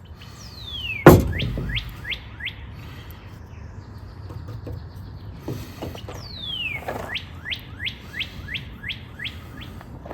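A songbird singing two phrases, each a long falling whistle followed by a quick run of about five short down-slurred notes. A sharp knock about a second in is the loudest sound.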